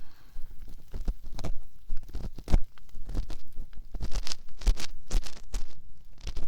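Ear pick scraping and clicking inside the ear of a binaural dummy-head microphone, in irregular, close scratches with low bumps from contact with the mic.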